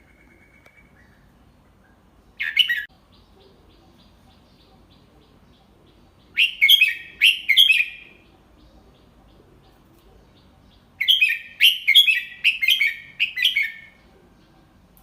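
Red-whiskered bulbul singing: a single short phrase about two and a half seconds in, then two runs of quick warbled notes, one around six seconds in and a longer one around eleven seconds in.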